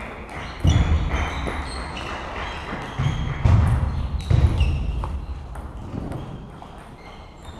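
Celluloid-type table tennis balls clicking off bats and tables in a reverberant hall, many quick ticks in irregular rallies. Several heavier low thuds stand out, the loudest about three to four and a half seconds in.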